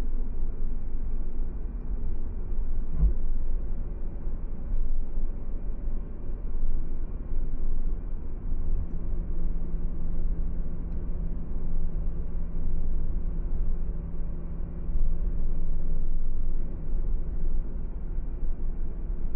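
A car driving along a road: a steady low rumble of tyres and engine, with a single knock about three seconds in and a steady hum that comes in for several seconds from about eight seconds in.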